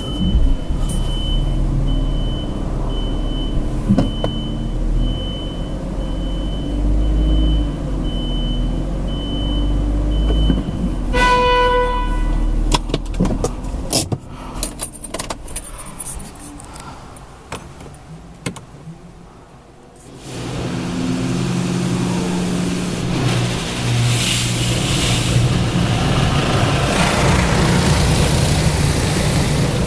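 Inside a car going through a Mark VII ChoiceWash XT automatic car wash. For about the first eleven seconds there is a steady low hum with a faint high beep repeating evenly, then a short tone, a few clicks and a quieter spell. About twenty seconds in, the wash machinery starts up with a loud, even rushing noise.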